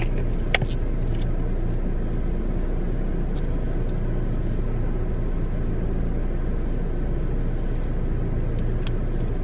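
Car engine idling, a steady low rumble heard inside the cabin, with a few light clicks.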